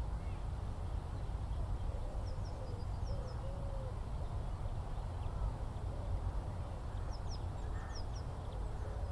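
Outdoor birdsong: a few low, arching honk-like calls in short runs, with brief high chirps from small birds, over a steady low rumble.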